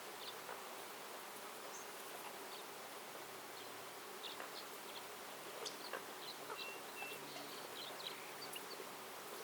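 Flying insects buzzing with a low, wavering hum, over a steady natural background hiss, with scattered short bird chirps and one brief whistled note about seven seconds in.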